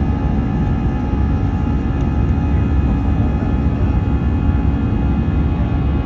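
Airbus A319 jet engines running at high thrust: a steady loud rumble with several steady tones laid over it.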